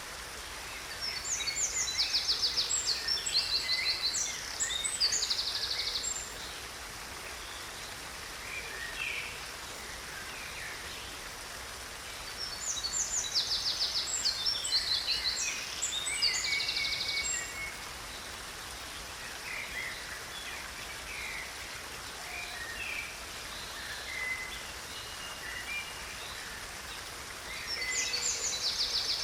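Small stream running steadily, with songbirds singing over it in bursts of rapid high trills and chirps: a long stretch near the start, another in the middle, and a short one near the end.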